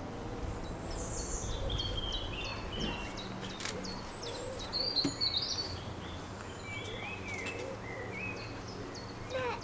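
Small birds chirping and singing in the surrounding trees, short calls and quick pitch glides scattered throughout, over a faint steady low hum.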